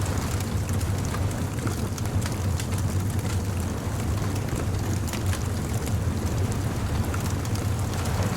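Beach bonfire ambience: a wood fire crackling and popping with scattered small snaps, over a steady low rumble.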